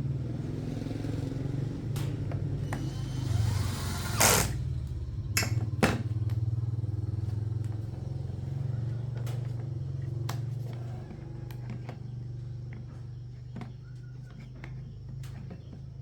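A motor or small engine running steadily, with a few sharp knocks about four to six seconds in, the loudest near four seconds.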